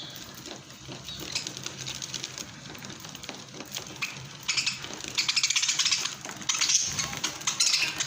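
Lovebirds eating: quick clusters of small, sharp clicks as their beaks peck and crack food, growing busier in the second half.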